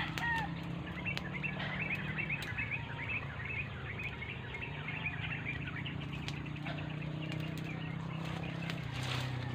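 Small birds chirping in quick repeated notes, thickest in the first few seconds, over a steady low hum and a few light clicks.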